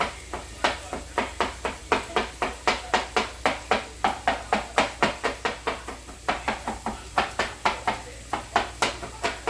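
Knife chopping quickly on a cutting board: a steady run of sharp knocks, about three to four a second.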